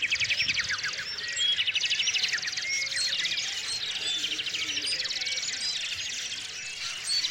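Small songbirds chirping and trilling, with a rapid trill repeated every second or two over scattered short chirps.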